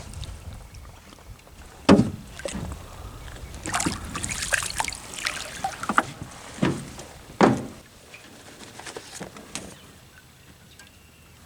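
Sharp knocks against a boat, loudest about two seconds in and twice more later, with splashing and rustling between them, as a freshly caught catfish is handled and unhooked.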